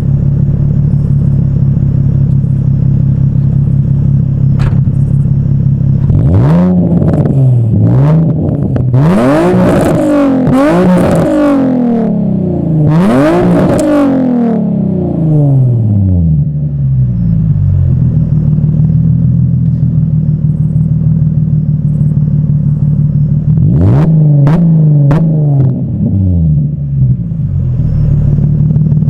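Nissan 350Z's 3.5-litre V6 through an Agency Power single-exit cat-back exhaust, with Stillen high-flow cats, a Motordyne Y-pipe and K&N intakes, idling and then revved in a series of quick blips, some stacked in fast succession, each falling back toward idle. After a longer stretch of steady idle, a shorter cluster of quick revs comes near the end before it settles to idle again.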